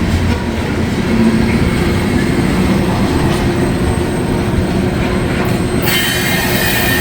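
Loaded coal hopper cars rolling past, a steady heavy rumble and clatter of steel wheels on the rails, with a high-pitched wheel squeal joining about six seconds in.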